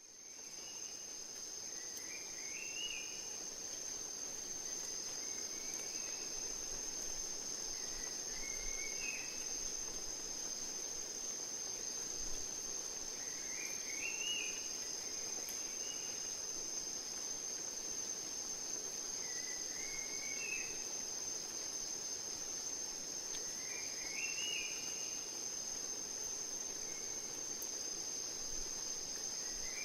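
Rainforest ambience: a steady, high-pitched insect trill with a bird repeating a short rising call about every six seconds, over a soft hiss. It fades in at the start.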